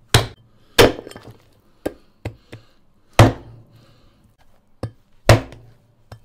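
Meat cleaver chopping through raw donkey rib bones on a plastic cutting board: four heavy, sharp chops spread over the few seconds, with lighter knocks between them.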